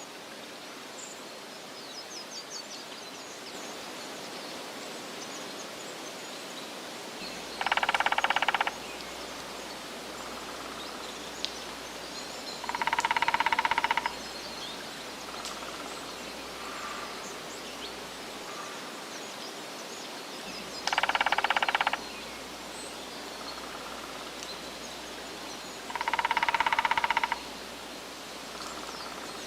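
Steady outdoor ambience with faint bird chirps, broken four times by a loud, harsh animal call about a second long, the calls coming in two pairs.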